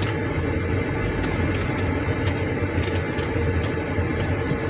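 Car engine running with a steady low hum and a few light clicks.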